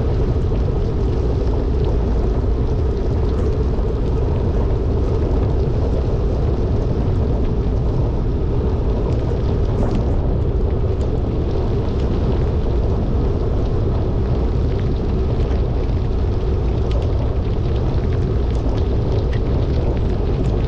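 Steady wind rumble on the microphone and the hiss of heavy rain while cycling downhill at speed, with scattered faint ticks.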